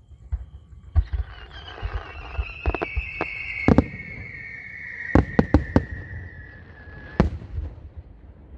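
Aerial fireworks going off: a long whistle slowly falling in pitch over several seconds, among sharp bangs, with a quick cluster of bangs about five seconds in.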